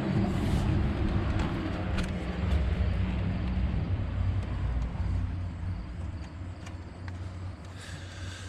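A vehicle engine running steadily, with scattered light clicks and knocks.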